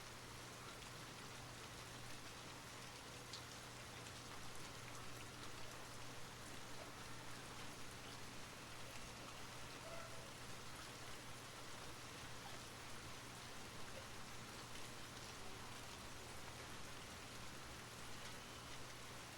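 Soft rain falling steadily: an even hiss with scattered faint drop ticks.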